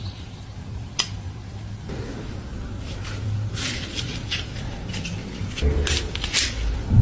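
A sharp metal click about a second in, then a run of short clinks and scrapes of metal on metal in the second half, over a low steady hum.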